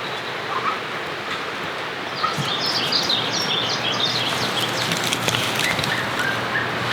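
Steady rain falling, with a bird chirping in a quick run of high calls about two to four seconds in.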